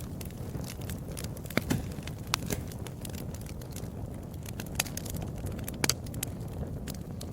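Wood fire crackling, with sharp pops every second or so over a low, steady rumble of the flames.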